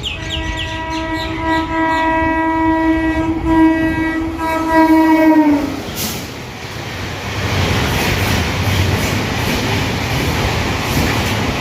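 Indian Railways express train sounding a long horn as it passes, the pitch dropping right at the start and the horn cutting off after about five and a half seconds. Then comes the rush of the train going by at speed, with the clickety-clack of wheels over rail joints.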